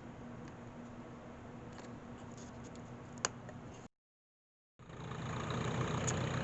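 A steady low mechanical hum with one sharp click about three seconds in, then about a second of dead silence. After the break, an engine is heard idling steadily, louder than the hum.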